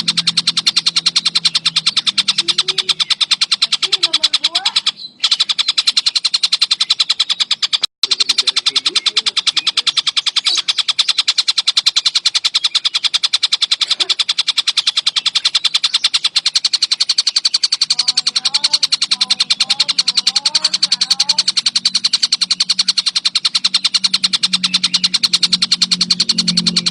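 Tengkek buto (a kingfisher) giving a loud, very rapid unbroken chattering trill as a looped song-training recording, cut off twice briefly near five and eight seconds. Softer, lower warbling notes come in and out beneath it.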